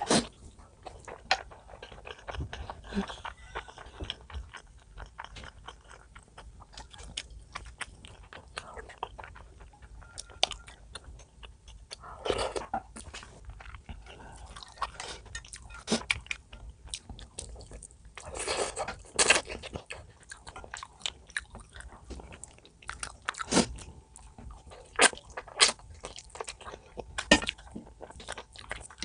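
Close-up eating sounds: chewing and biting with crisp clicks and crunches, and a few louder bites.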